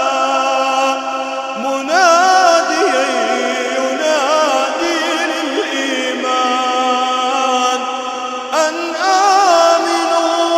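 A reciter's voice chanting Quranic verse in a slow melodic tajweed style. Notes are drawn out and ornamented with wavering turns, in several long phrases.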